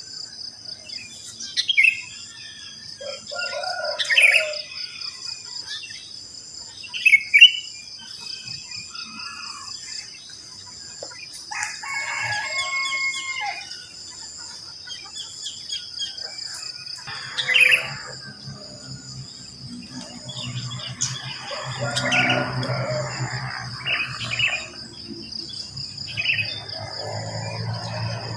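Dawn bird chorus of sooty-headed bulbuls and other songbirds giving scattered short chirps and calls, over a steady, pulsing high insect trill. A low hum and a broader, lower sound join in the second half.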